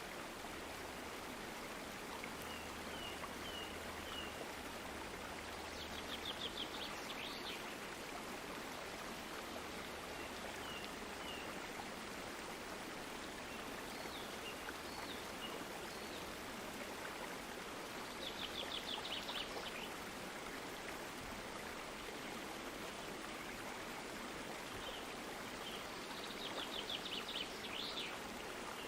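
Stream water flowing steadily, with small birds calling over it: a few short chirps and three quick trilled phrases spread through it.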